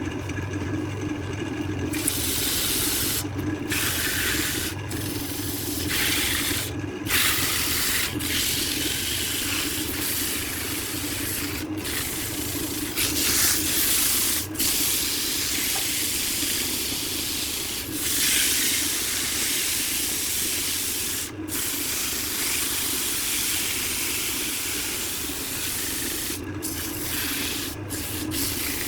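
Workshop machine running with a steady hum under a loud continuous hiss, broken by a few short gaps.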